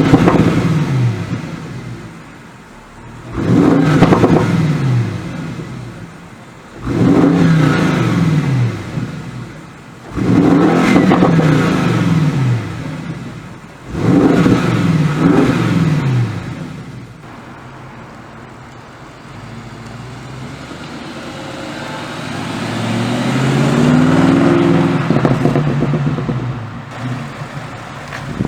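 Bentley Continental GT3-R's 4.0-litre twin-turbo V8 through its Akrapovic exhaust, blipped hard five times about every three and a half seconds, each rev falling away with crackles on the overrun. After a quieter spell, a slower swell of engine sound builds and fades about two-thirds of the way through.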